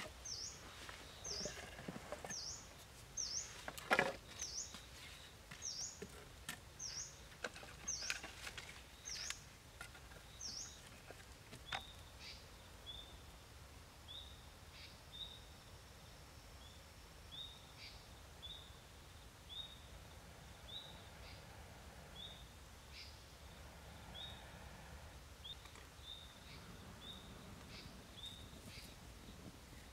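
Wild birds calling over a quiet outdoor background: a sharp, high chirp repeated about one and a half times a second for the first ten seconds, then a lower, shorter call repeating at a similar pace through the rest. A few clicks and knocks come in between, the loudest about four seconds in.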